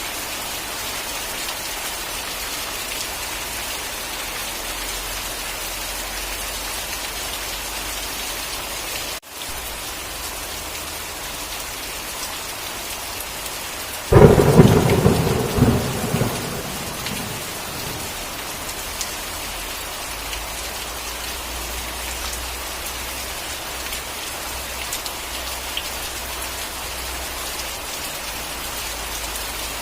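Steady rain hissing, then a sudden loud thunderclap about halfway through that rumbles and dies away over three or four seconds. The rain cuts out for an instant about a third of the way in.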